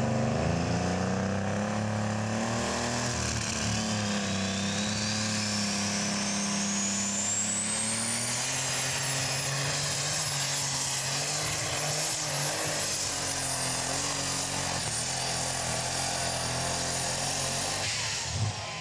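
Super stock diesel pulling tractor running at full power under load, its turbocharger whine rising steadily for several seconds and then holding high. Near the end the engine is shut down and the sound drops away abruptly.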